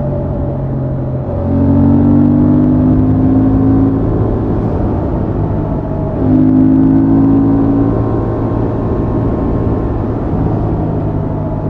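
Honda XL750 Transalp's 755 cc parallel-twin engine running through its stock exhaust while riding. The throttle opens twice, about a second and a half in and again about six seconds in, each time rising slightly in pitch for a couple of seconds before easing back.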